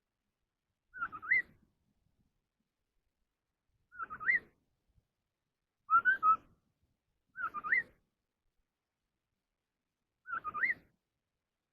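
A họa mi đất (scimitar babbler) singing: five short whistled phrases, each about half a second, a quick dip-and-rise in pitch repeated every one to three seconds. The fourth phrase, about six seconds in, is the loudest and goes differently from the others.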